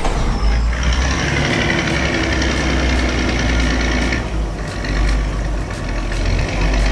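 Heavy construction-vehicle engine rumbling steadily, with a harsher, higher-pitched working noise laid over it from about one to four seconds in.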